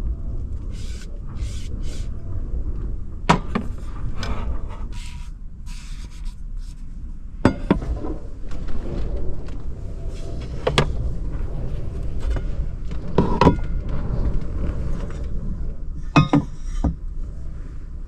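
Several sharp clicks and knocks of objects being handled and set down, about five standing out, over a steady low rumble.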